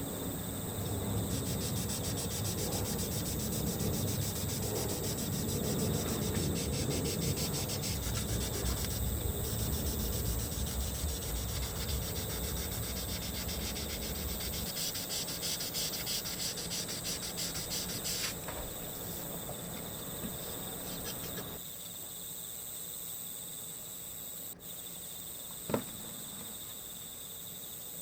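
Rapid rubbing strokes of hand work on a plastic model kit part, stopping about 18 seconds in, over a steady chorus of crickets; a single small click near the end.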